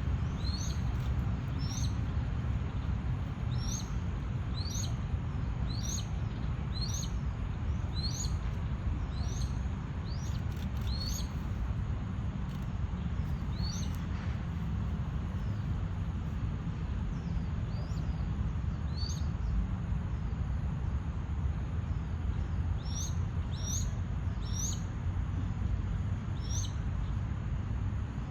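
Crested goshawk giving thin, high, rising call notes repeated in quick series, pausing partway through and starting again near the end, over a steady low rumble.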